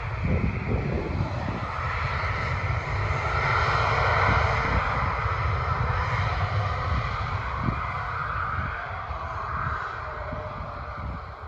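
Aircraft engines passing, the roar building to a peak about four to six seconds in and then fading away, with wind buffeting the microphone.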